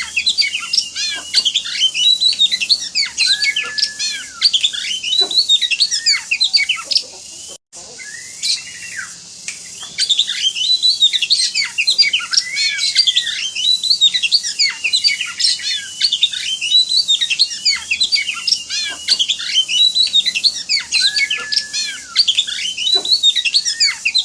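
Oriental magpie-robin (kacer) singing a fast, varied song of rapid chirps, whistled arcs and trills, in an excited, high-energy outpouring. The song breaks off briefly about seven and a half seconds in.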